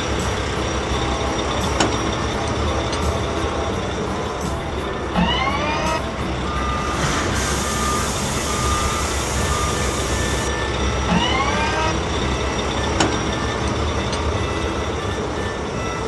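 Cartoon construction-vehicle sound effects: a heavy truck engine running steadily with intermittent reversing beeps. Two short rising, whistle-like sweeps come about 5 and 11 seconds in, and a rushing hiss runs for about three seconds in the middle.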